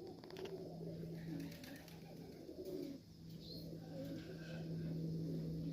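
Pigeons cooing softly: a series of low, warbling coos, over a steady low hum.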